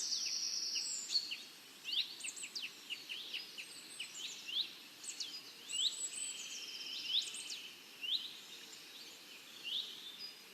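Several songbirds chirping and singing together: many short, quick, high-pitched notes and trills overlapping, over a faint steady hiss of outdoor ambience.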